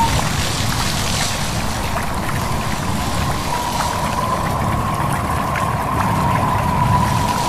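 Steady wind-and-stream ambience: a deep rumbling rush with small trickling ticks, and over it a thin, slightly wavering whistle that grows stronger in the second half.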